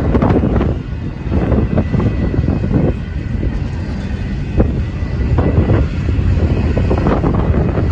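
Strong wind gusts buffeting the microphone over the steady rumble of a double-stack intermodal freight train, with irregular knocks throughout.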